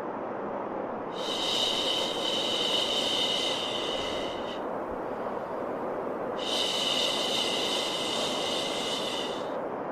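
Steady white noise with two long "shhh" shushing sounds over it, each lasting about three seconds, the second starting about six seconds in.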